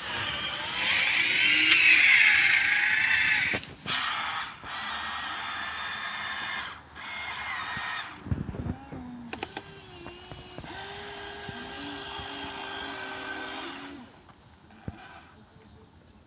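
Huina 1593 radio-controlled excavator's small electric motors whining in stop-start bursts as the arm, bucket and turntable move, with a cluster of knocks and scrapes about eight seconds in as the bucket digs.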